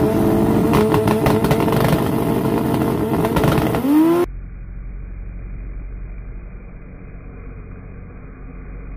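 Toyota Supra's turbocharged 2JZ inline-six held at steady high revs with rapid crackling on the start line, then rising in pitch as the car launches. About four seconds in the sound drops abruptly to a quieter, muffled drone as the car pulls away down the drag strip.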